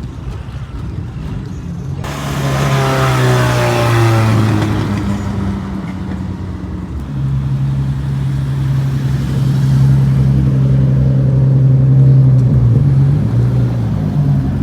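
Car engines at a meet pullout. About two seconds in, a car goes by loud, its engine note falling in pitch as it passes. From about halfway, another engine holds a loud, steady note that wavers near the end.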